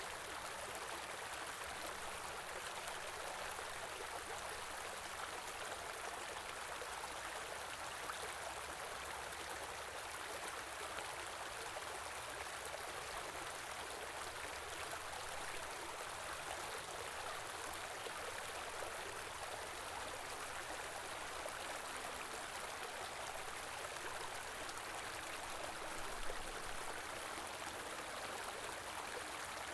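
A river flowing steadily: an even rush of running water. One brief low bump comes near the end.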